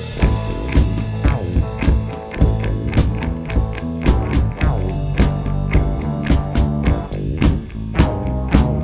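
Band jamming: a drum kit keeps a steady beat, about three to four hits a second, under guitar and bass.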